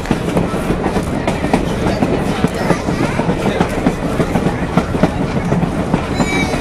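Passenger cars of a moving heritage train: steel wheels clicking and clattering over the rails, with the cars rattling and knocking continuously.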